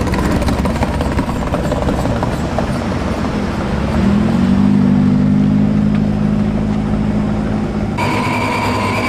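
A vehicle engine running over a rumble of traffic, revving up about four seconds in and then holding a steady pitch. Just before the end the sound changes abruptly and a high steady tone joins in.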